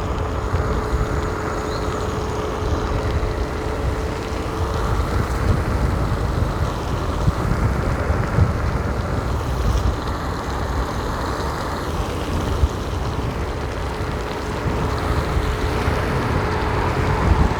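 Wind buffeting the microphone over steady rumbling road noise while riding a Ninebot F2 electric kick scooter on a wet road, with a thin steady whine throughout.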